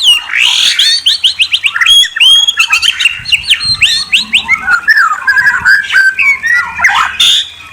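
Murai songbird singing loudly, a fast unbroken run of clear whistled notes, many sliding quickly down in pitch, mixed with trills and chattering phrases.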